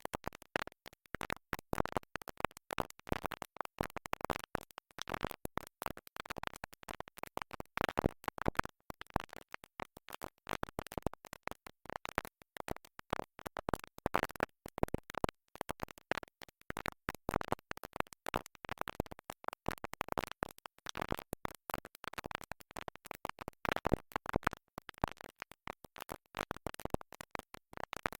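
A vinyl record stuck in its groove, the same fragment of music repeating over and over in rapid, choppy stutters.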